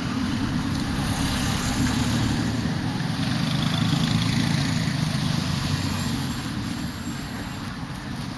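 Street traffic: motor vehicle engines running close by, a steady low hum that eases off slightly near the end.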